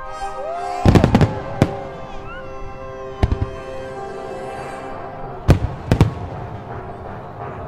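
Aerial firework shells bursting with sharp bangs, a loud cluster about a second in and single bangs around three seconds and twice near five to six seconds, over orchestral music holding sustained notes.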